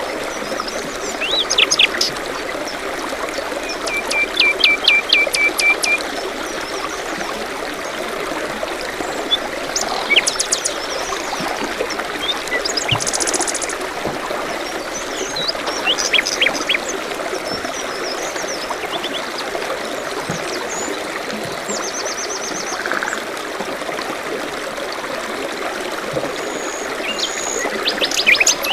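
Small stream trickling steadily, with several songbirds calling over it: a run of quick repeated chirps about four seconds in, a high trill about halfway, and scattered short calls.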